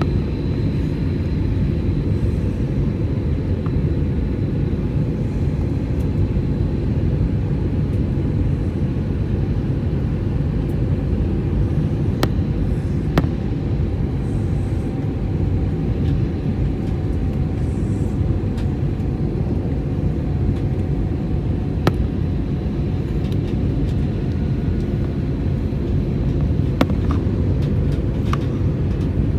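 Steady low rumble of engines and airflow heard inside the cabin of an Airbus A320-200 coming in to land, with faint steady whines and a few small clicks and rattles.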